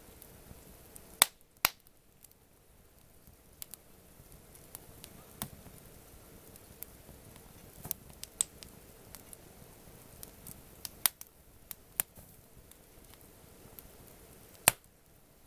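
Campfire burning, wood crackling: a soft steady hiss with scattered small ticks and a few loud, sharp pops, two close together about a second in and one near the end.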